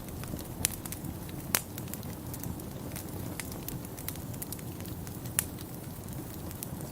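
Wood fire in a fireplace crackling, with a few sharp pops, the loudest about a second and a half in, over a steady low rumble.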